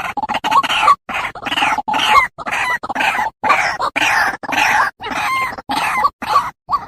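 White-breasted waterhen (ruak-ruak) calling: a rapid run of harsh, croaking notes, two to three a second, turning to shorter clipped notes near the end. This is the waterhen call used to lure the birds into traps.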